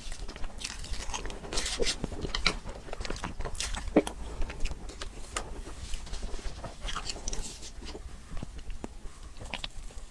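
A person biting and chewing soft cake dessert, with irregular wet smacking and clicking mouth sounds.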